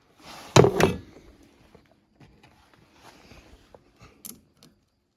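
Hand tools and small metal carburetor parts being handled: a short clatter of knocks about half a second in, then faint clicks and scrapes, and a sharp click a little after four seconds.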